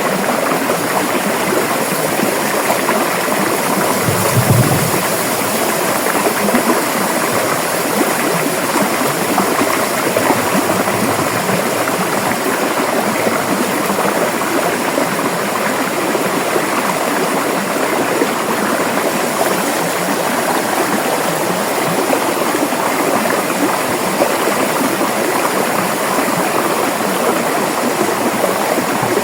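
River water flowing steadily, a continuous dense rush. About four seconds in there is a brief low thump.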